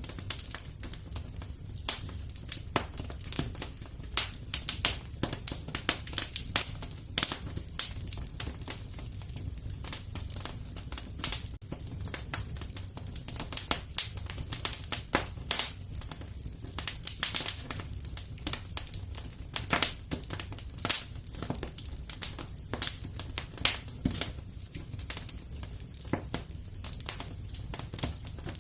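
Wood fire crackling in a fireplace: irregular sharp pops and snaps, several a second with some louder ones, over a steady low rumble.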